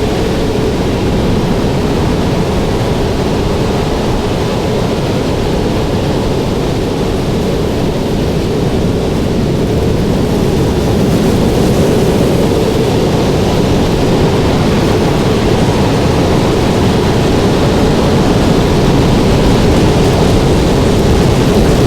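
Loud, steady roar of strong wind, mostly low rumble, buffeting the microphone and growing louder in the second half.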